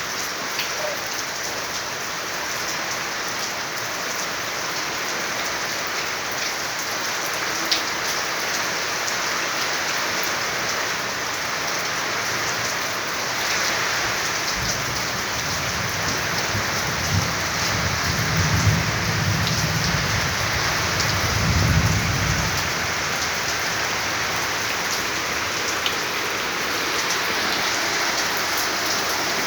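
Heavy rain falling steadily in a thunderstorm. About halfway through, a low roll of thunder rumbles for some eight seconds.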